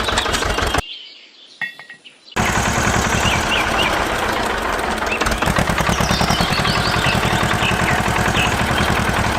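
Small engine running, its exhaust beating in a rapid, even chug, with birds chirping faintly behind it. The sound drops away about a second in and returns about a second and a half later.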